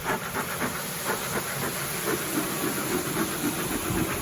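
Bee smoker being puffed, its bellows pushing out repeated hissing puffs of smoke to drive bees back into their box.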